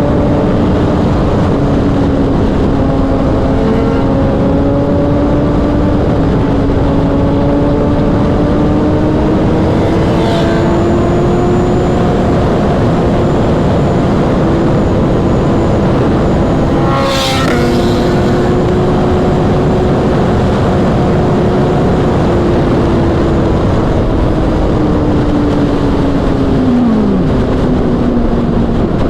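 A Kawasaki inline-four sport bike's engine pulling steadily at highway speed, heard from the bike under heavy wind noise, its note holding and creeping slowly higher. There is a short rushing whoosh about halfway through, and near the end the engine note drops off as the throttle comes off.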